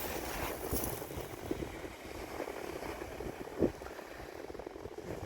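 Wind buffeting the microphone outdoors by the sea, with one short knock a little past halfway.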